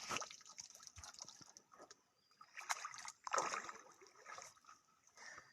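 Water splashing and sloshing in irregular bursts, loudest about three seconds in.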